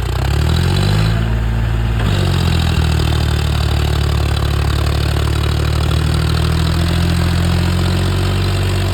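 John Deere tractor's diesel engine revving up in the first second, dropping back about two seconds in, then running steadily under throttle with a slight rise near the end.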